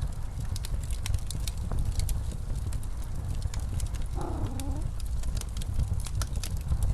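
Blizzard wind as a steady low rumble, with a wood fire crackling and popping throughout. About four seconds in comes one short, wavering pitched sound of about half a second.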